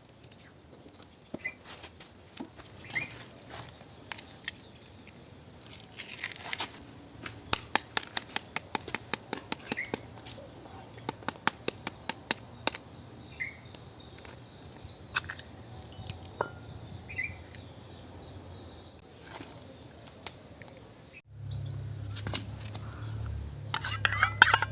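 Birds chirping faintly now and then over outdoor ambience, with a quick run of sharp clicks or taps about a third of the way in. A steady low hum starts suddenly near the end, followed by a few bright clinks.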